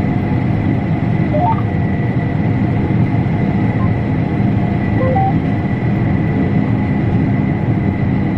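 Combine harvester running steadily while cutting wheat, a constant loud drone. A few short electronic beeps sound about a second and a half in and again about five seconds in.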